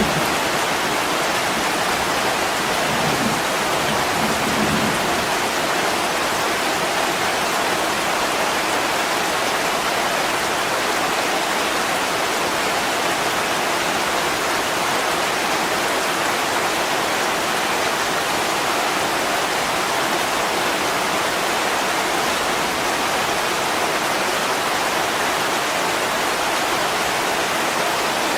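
Heavy rain pouring on a window pane, a steady dense hiss without a break.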